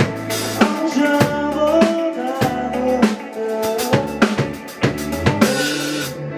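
Indie rock band playing live in an instrumental passage: a drum kit beating steadily under bass notes and a melodic line. Near the end the drums drop out, leaving held low notes.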